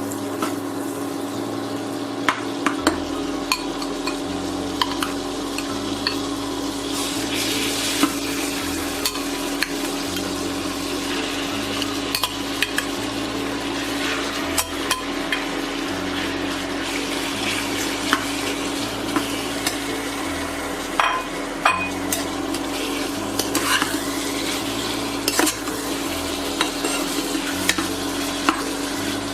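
Diced chicken sizzling in butter and olive oil in a frying pan while being sautéed, with a spatula scraping and tapping against the pan many times. A steady hum runs underneath.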